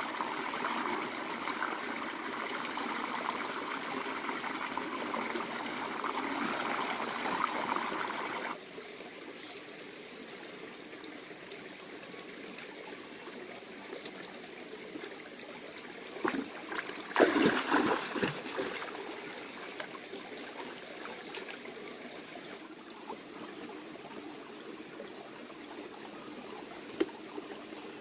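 Water running steadily, like a stream or trickle. The sound changes abruptly and gets quieter about a third of the way in, and a few sharp knocks come just past the middle.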